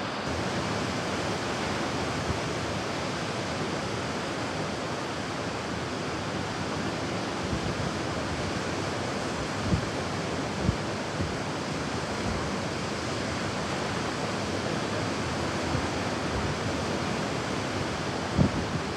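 Ocean surf washing as a steady, even roar, with a few brief low thumps about halfway through and near the end.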